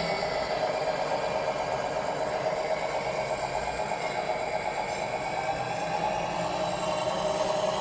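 Tamiya Scania R620 radio-controlled model truck running with a steady, fast-pulsing idling diesel-engine sound, as from the model's engine sound unit.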